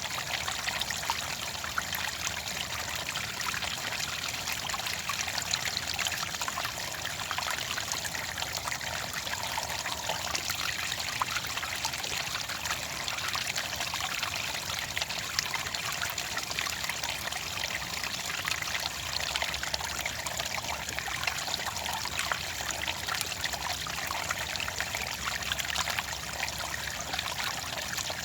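Shallow clear water trickling and babbling steadily, a dense even splashing without pause.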